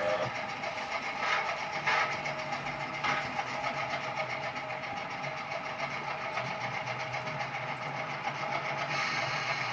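OO gauge model train running along the track, its small electric motor whirring steadily, with a few light clicks early on.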